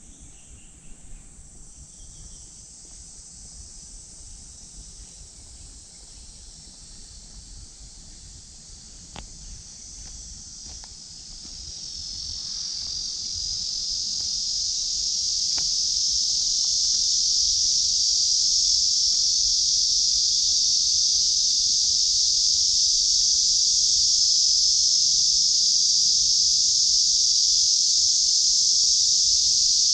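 Chorus of cicadas in summer trees: a dense, high-pitched buzzing hiss that swells to a loud, steady drone about halfway through.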